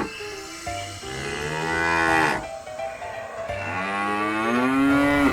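Cow mooing: two long, drawn-out moos.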